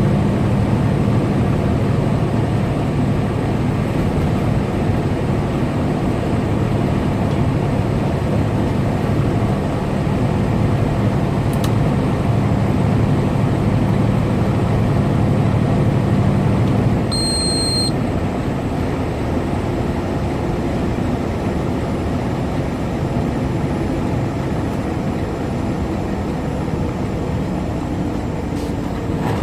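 Semi truck's engine and road noise from inside the cab while cruising on the highway. The low engine drone eases off about 17 seconds in, and a short high beep sounds at the same moment.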